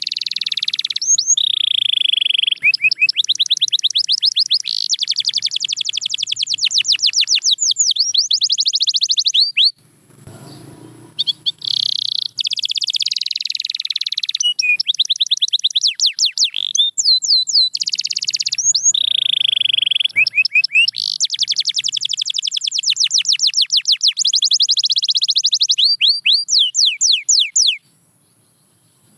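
Canary singing long song phrases of very fast trills and rapidly repeated notes, linked by short whistled slides. The song breaks off about ten seconds in, resumes, and stops again near the end.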